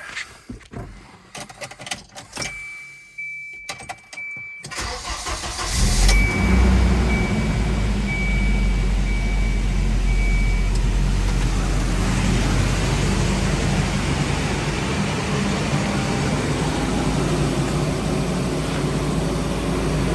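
1993 Volvo 240 cold start after sitting about a week: a few clicks and knocks and a high steady tone, then the engine cranks briefly and catches about six seconds in. It settles into a steady fast idle, with a high beeping tone pulsing for a few seconds after it starts.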